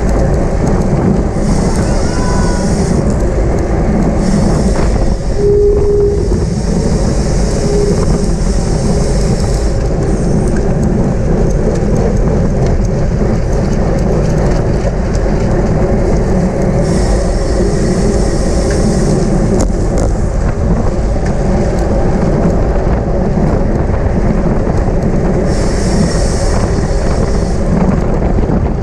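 Loud steady rush of wind and road noise from a bicycle ridden at race speed, with a higher hiss that comes and goes every few seconds.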